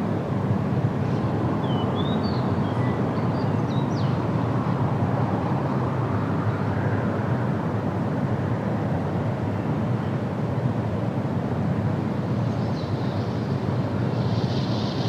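Steady low rushing noise, with a few faint, short bird chirps between about one and four seconds in and another faint call near the end.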